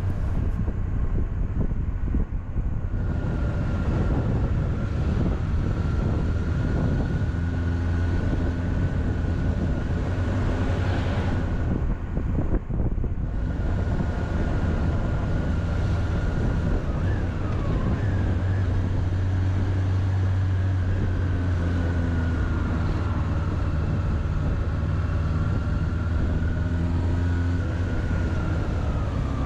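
A 2007 Honda CB400SF's inline-four engine running steadily while the bike is ridden, with a thin steady high whine above the engine note.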